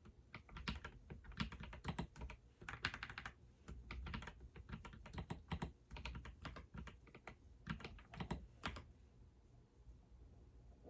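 Typing on a computer keyboard: quick key clicks in uneven runs, pausing now and then, which stop a couple of seconds before the end.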